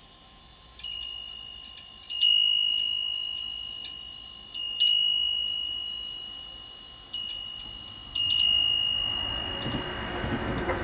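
Metal chimes ringing, struck at irregular intervals about a second or two apart, each high clear tone fading slowly. A rushing noise builds under them near the end.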